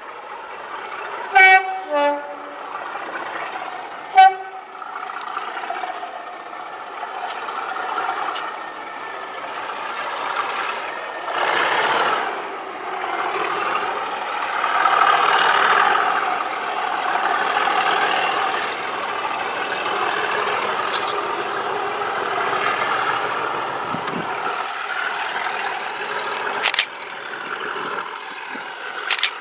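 Class 37 diesel locomotive's two-tone horn: a quick high-then-low sounding, then one short toot a couple of seconds later. After that comes the English Electric V12 diesel engine working under power, building to its loudest around the middle and staying strong.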